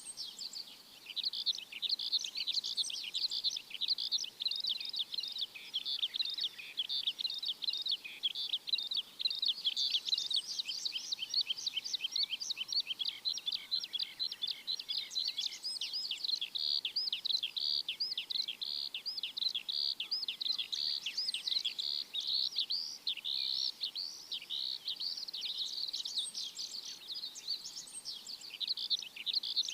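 Songbirds chirping in a dense, continuous chorus of quick, high-pitched chirps.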